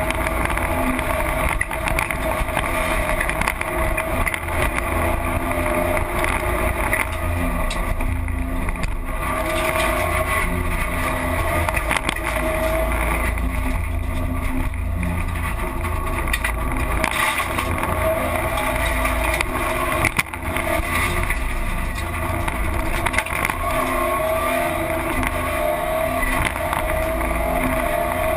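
Rally car's engine heard from inside the cabin at stage speed, revs rising and falling through the gears, over constant road and wind noise. A brief drop in loudness comes about twenty seconds in.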